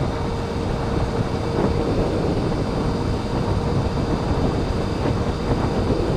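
Honda CBR600F4i inline-four motorcycle engine running steadily while riding, under a low rumble of wind on the helmet microphone.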